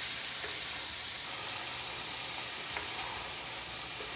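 Steady sizzling hiss from a pot of soup cooking on the stove, just after an ingredient has been added.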